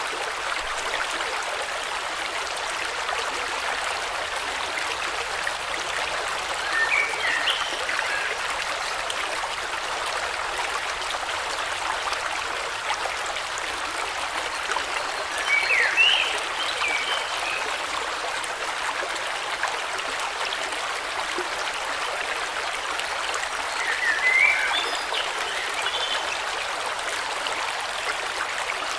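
Steady rush of a flowing stream over stones, with a short burst of high bird chirps three times, roughly every eight or nine seconds.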